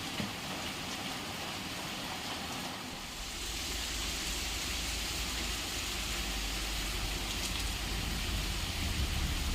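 Heavy rain falling steadily, an even hiss. About three seconds in it grows a little louder and a low rumble joins it.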